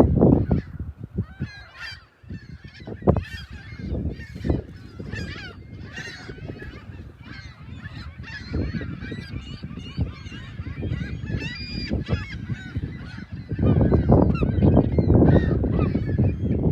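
A flock of seagulls calling over and over, many short squawks overlapping. A loud low rushing noise is there at the very start and comes back strongly near the end.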